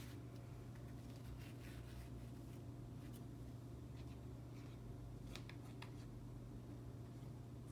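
Paper and craft pieces handled on a work table: scattered soft taps, clicks and rustles over a steady low hum.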